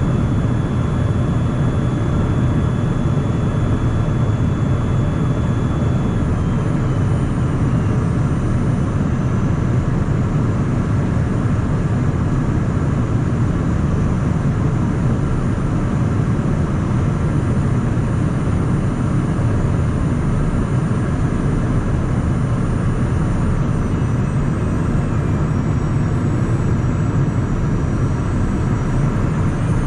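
Steady cabin noise of a Cessna Citation Mustang in flight: a dense, unbroken rush of airflow and twin-turbofan engine noise, heaviest in the low range. Faint high whining tones sit over it and drop slightly in pitch about six seconds in and again near the end.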